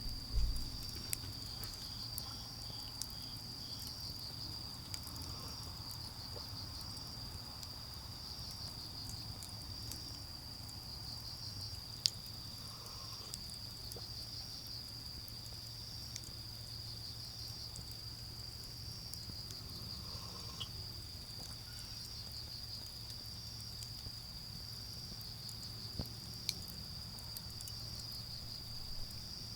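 Autumn crickets calling steadily in a high, pulsing trill, with occasional sharp snaps from the burning wood and embers of a small garden fire. The sharpest snap comes about twelve seconds in.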